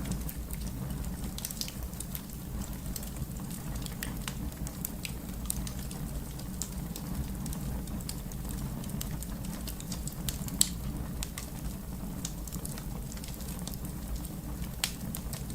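Fire crackling: scattered sharp pops and snaps over a steady low rumble of the flames, with one louder pop about ten seconds in.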